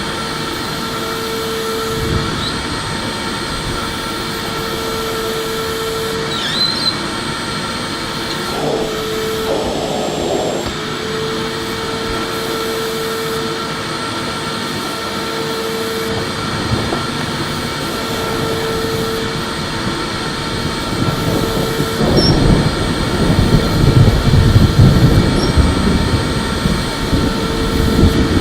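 Electric vacuum cleaner running steadily, a whirring hiss with a motor whine that drops out and comes back several times. In the last third a louder, rougher rumble joins in.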